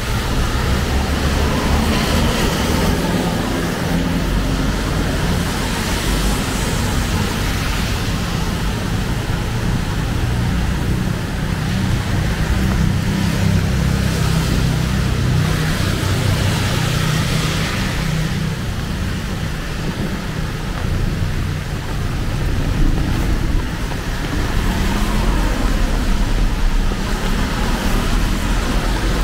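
Heavy rain falling on a city street, a steady hiss, with vehicles passing on the wet road now and then over a constant low rumble.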